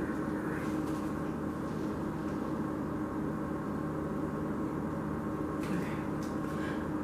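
Steady background hum with a few held low tones, and a couple of faint clicks near the end.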